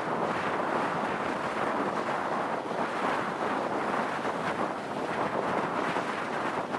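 Steady wind rush buffeting the microphone of a moving motorbike, with the ride's vehicle noise blended in.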